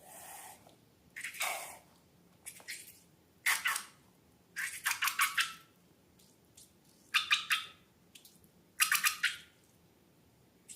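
Slime being squished and pressed, about six short bursts of wet crackling and popping with pauses between them.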